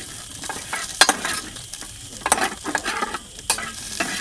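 Food frying in a hot pan: a steady sizzle broken by irregular sharp crackling pops.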